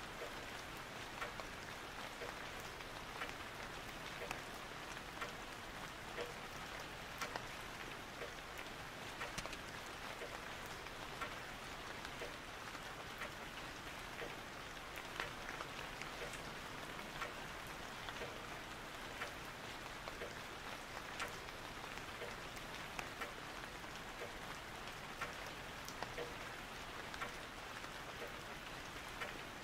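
Steady rain: an even hiss with many small drop ticks scattered at random.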